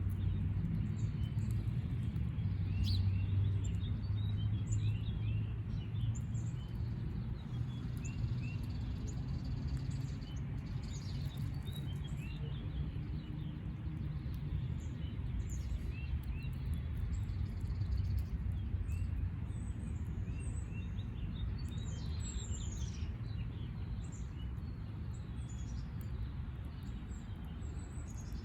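Small birds chirping and tweeting in short, scattered calls over a steady low rumble.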